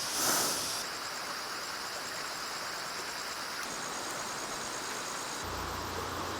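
A steady, high-pitched chorus of tropical forest insects buzzing and trilling. The chorus changes abruptly several times, about a second in, midway, and near the end.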